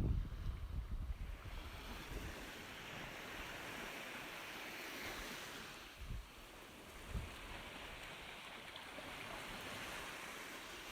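Ocean surf: a steady wash of waves that swells gently and eases, with two soft low thumps about six and seven seconds in.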